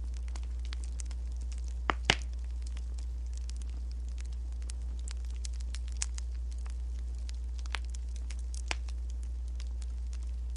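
Wood fire crackling: scattered sharp pops, two louder ones close together about two seconds in, over a steady low hum.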